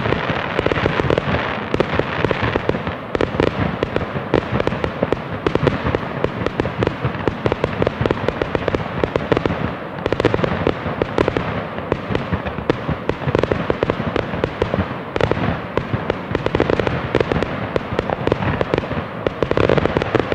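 A long string of firecrackers going off, a dense run of rapid sharp pops that keeps on without a break.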